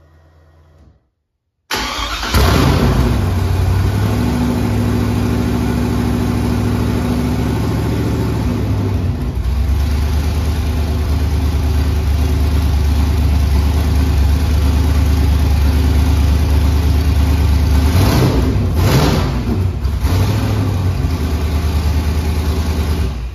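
The LS-swapped V8 in a 1990 Chevrolet Camaro IROC-Z starting up: it fires and catches suddenly, flares, then idles loud and steady, settling lower about nine seconds in. It runs on a basic 'wizard' base tune with some parts still missing. Two quick throttle blips come around 18 seconds in, then it keeps idling.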